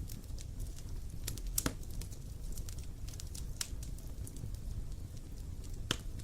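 Wood fire crackling: a steady low rumble of burning with frequent small pops, and two sharper snaps about a second and a half in and near the end.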